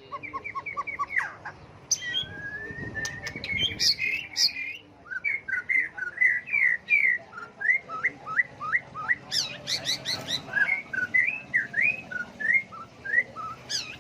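White-rumped shama singing a long, varied song of clear whistled phrases that keep changing: a quick run of repeated notes at the start, a long rising whistle, then a string of short sliding notes.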